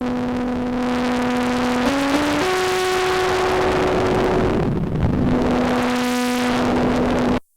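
Sequential analog synthesizer playing a noisy patch: held notes that step up and back down in pitch, under a heavy hiss of noise that dips and sweeps back up about five seconds in, cutting off suddenly near the end.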